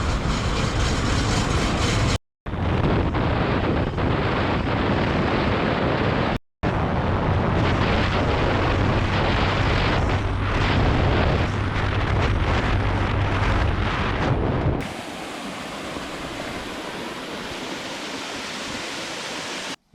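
Heavy wind buffeting on the microphone, a loud rushing noise with deep rumble, broken by two brief cuts to silence. About fifteen seconds in it gives way to a quieter, steady rushing hiss.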